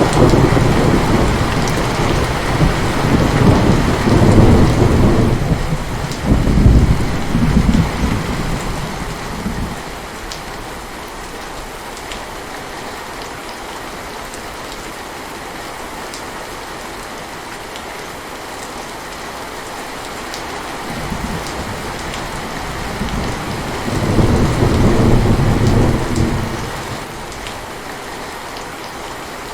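Steady heavy rain with rolling thunder: long low rumbles through the first ten seconds, then rain alone, then another roll of thunder a little past the middle of the second half.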